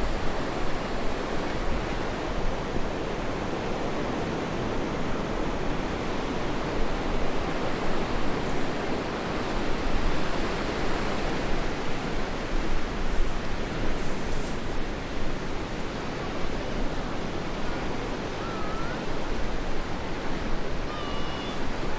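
Waves washing on a beach, a steady rush of surf, with wind buffeting the microphone. A few faint bird calls come near the end.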